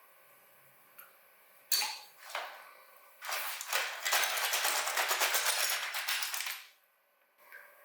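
Hand and tool work on a die-cast model car: a few sharp clicks and knocks, then about three seconds of fast, dense rattling clicks that stop suddenly.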